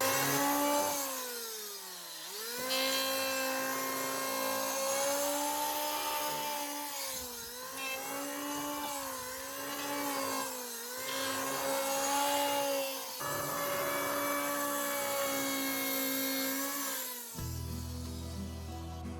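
Maktec electric planer running at speed with a steady pitched hum and a rough cutting noise. Its pitch sags several times as the blades take load in the wood and then recovers. It stops near the end and soft background music comes in.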